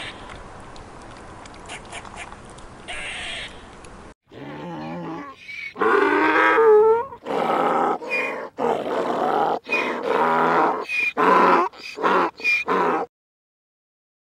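Donkey braying: loud, repeated hee-haw calls start about four seconds in and stop abruptly near the end. Before that there is only faint background noise with two short higher-pitched sounds.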